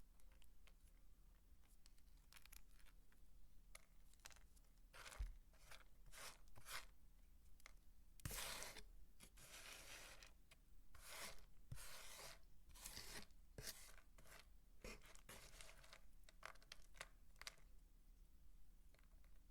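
Dry soap crunching and crumbling under the hands: a run of short crisp strokes, with a longer scraping crunch about eight seconds in.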